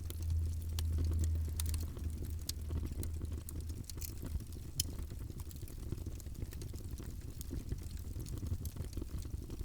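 Wood fire in a fireplace crackling: irregular sharp pops and snaps over a steady low rumble of the flames, the rumble swelling for the first couple of seconds.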